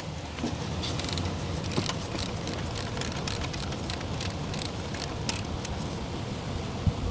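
Irregular light metallic clicks and clinks of a socket wrench working valve cover bolts, over a steady low background rumble.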